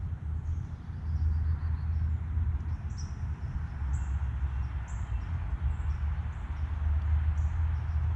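Small songbirds giving short, high chirps, one about every second, over a steady low rumble.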